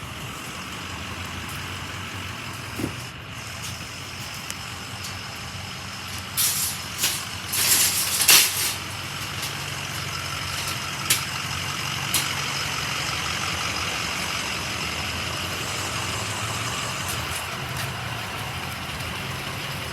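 Ford Super Duty pickup truck engine idling with a steady low hum. A few loud hissing bursts about six to nine seconds in, and a couple of sharp clicks a little later.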